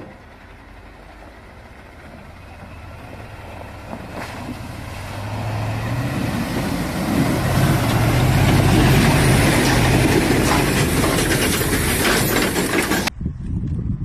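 Heavy vehicle engine running and growing steadily louder as it draws near, loudest about nine seconds in, then cut off abruptly about thirteen seconds in.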